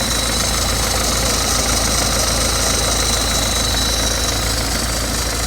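BMW 320d F30's four-cylinder diesel engine idling steadily after a cold start, with a continuous metallic rattle like a loose plate whose cause the owner does not know.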